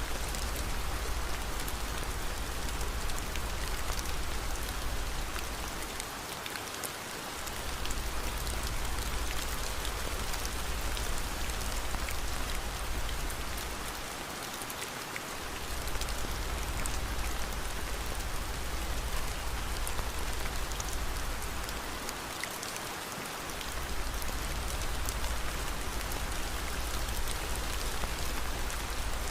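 Steady rain falling, a constant hiss with fine ticks of drops, over a deep low rumble that drops out briefly three times, about every eight seconds.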